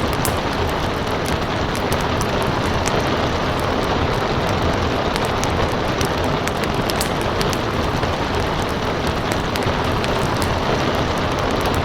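Steady rain with a wood fire crackling, its sharp pops and snaps scattered irregularly through the rain's constant hiss.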